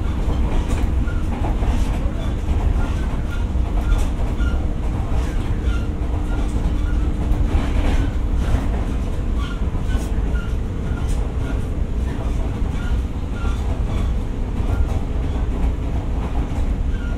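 JR 115-series electric train running, heard from on board: a steady rumble of wheels on rail with scattered rail-joint clicks. A steady hum fades out about eight seconds in. This is the older train's louder running sound.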